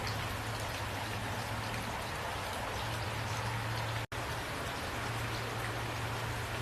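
Steady rain with individual drops ticking over a constant wash, and a low steady rumble underneath. The sound cuts out for an instant about four seconds in, then resumes unchanged.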